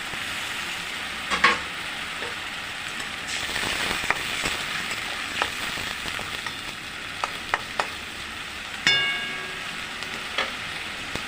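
Ginger-garlic paste sizzling in hot oil in a kadai, with a spatula clinking and scraping against the pan every second or two. One strike about nine seconds in rings briefly like metal.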